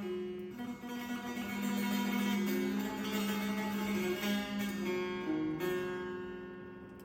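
Persian setar plucked in a slow melodic phrase, its notes ringing on and changing pitch every half second to a second, fading toward the end.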